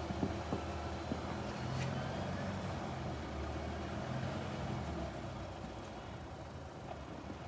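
Car engine running at low revs, a steady low hum.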